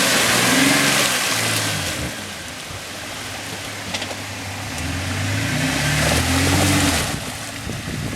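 An off-road SUV engine revving hard in two surges while driving through mud: one at the start that eases off, then a second that climbs and drops near the end, over a steady hiss.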